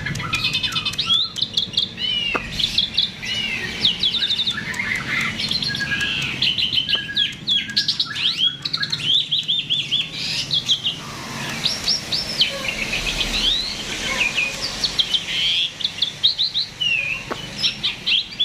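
A jalak (Asian starling) singing in full, vigorous song: a continuous rapid run of chirps, sweeping whistles and quick up-and-down trills.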